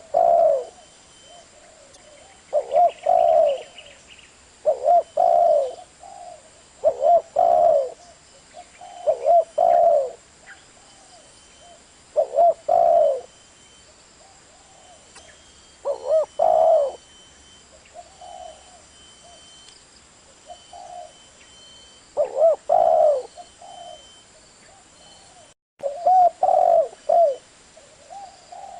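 Spotted dove cooing: short, low, two- to three-note coo phrases repeated every two to three seconds, a few of them softer.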